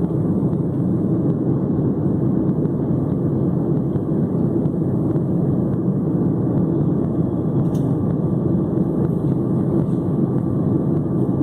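Boeing 757 jet engines and airflow making a steady, loud drone inside the passenger cabin.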